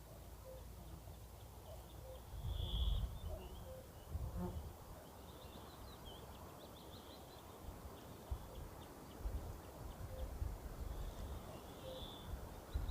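Outdoor nature ambience: repeated high chirping calls and short trills, with low rumbling buffets coming and going, loudest about two to three seconds in and again in the second half.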